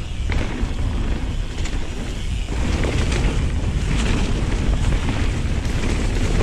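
Wind buffeting the rider's camera microphone in a heavy low rumble as a mountain bike rides fast down a rough dirt trail, with scattered rattles and clicks from the bike over bumps.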